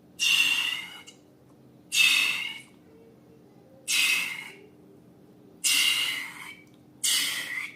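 Air and contents squirting out of the necks of balloons being squeezed, in five short hissing bursts with a squeaky tone, about one every two seconds.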